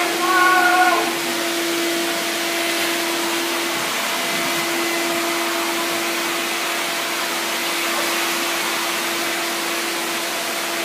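Hoover vacuum cleaner motor running steadily: a constant hum over a rushing hiss. A brief pitched sound rides over it in the first second.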